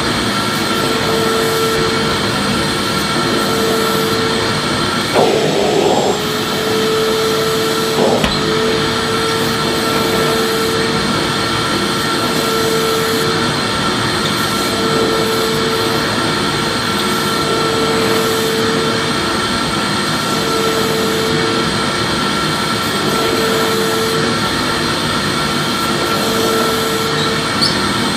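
Vacuum cleaner running steadily, its loud rushing noise carrying a hum that swells and fades every couple of seconds. A short burst of noise comes about five seconds in and a click about eight seconds in.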